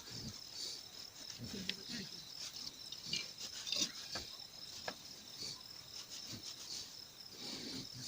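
Insects chirping in a steady high trill that pulses on and off, with a few faint clicks and soft low sounds around it.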